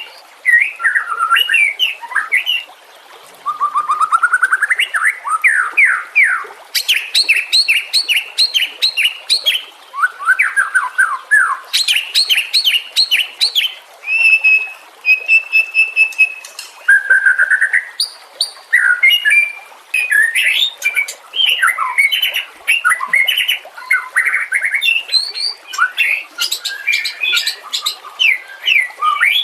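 White-rumped shama (murai batu) singing a continuous, varied song of fast trills, rapid sweeping notes and a few short held whistles.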